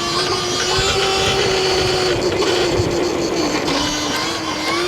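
Stomp Haywire electric dirt bike's motor whining at a fairly steady pitch that dips and rises slightly with speed, over a steady rush of wind and road noise.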